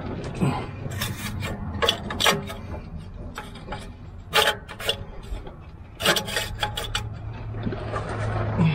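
Hand tools knocking and scraping on the truck's rusty exhaust clamps and flex pipe, with several sharp metallic clinks. A low steady hum grows louder near the end.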